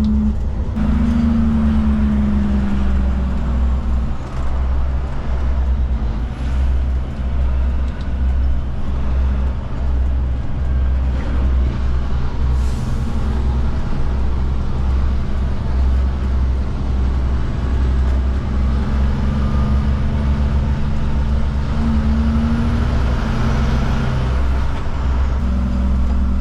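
Cummins diesel engine of a Kenworth K200 cabover truck running under way: a steady low drone whose pitch shifts a few times as the revs change.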